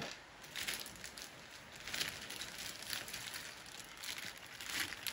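Rain falling outside: a faint, uneven patter and hiss.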